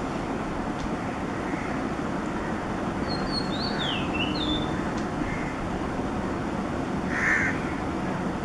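Oriental magpie robin singing a short phrase of high whistled notes with a falling slide, about three seconds in. A harsher, louder call comes near the end, over steady background noise.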